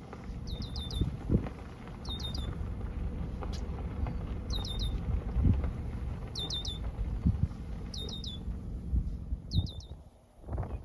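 A small bird calling repeatedly in quick clusters of three or four high, falling notes, about every second and a half, over a low rumble of wind on the microphone.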